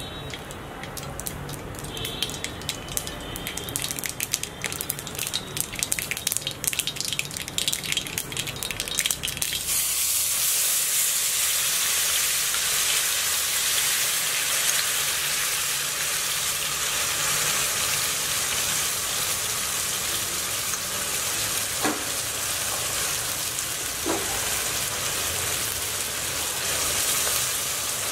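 Hot oil crackling and spitting in an iron kadai. About a third of the way in, ginger-garlic paste hits the oil and it breaks into a loud, steady sizzle as the paste fries, with two light knocks later on.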